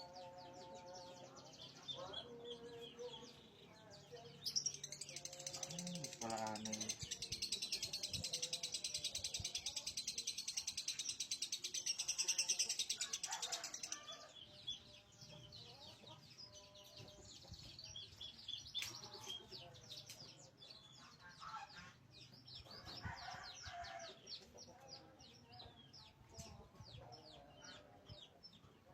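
Lovebird singing: a long, fast, high-pitched chattering trill lasting about ten seconds, starting about four seconds in, with shorter scattered chirps before and after it.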